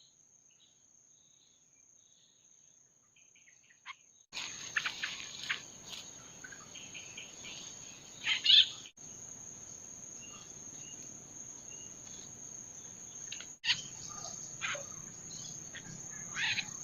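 Near silence for about four seconds, then a steady high-pitched drone of crickets or other insects. Short rustling and handling noises break in now and then, the loudest about halfway through.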